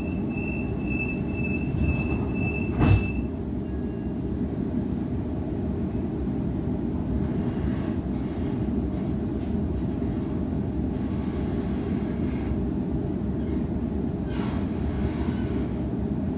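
Inside a Waratah electric train carriage, a steady high warning tone sounds for about three seconds and ends as a thud, likely the doors shutting. A steady low rumble follows as the train moves off from the platform.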